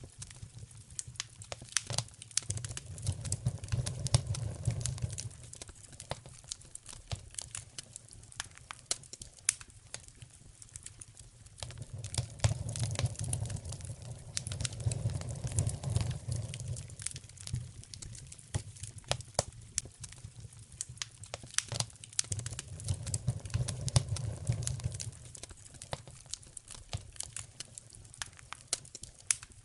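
Wood fire crackling in a fireplace, with many sharp pops and snaps. Under them a low rumble swells and fades three times.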